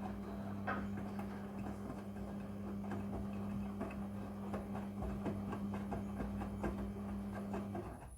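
Front-loading washing machine running through a blanket wash: a steady electric hum from its motor or pump, with many small clicks and taps from the turning drum. The sound cuts off suddenly near the end.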